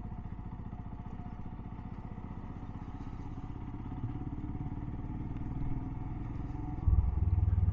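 Motorcycle engine running at low speed, a steady rapid beat of firing pulses, with a louder low rumble for about a second near the end.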